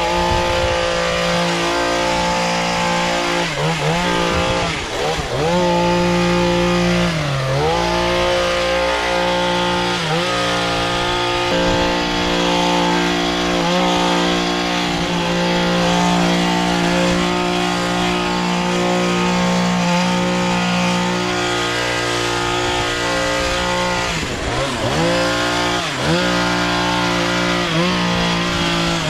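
Gas lawn mower engine running steadily at full throttle, its pitch sagging briefly and recovering several times as it bogs in thick, overgrown grass.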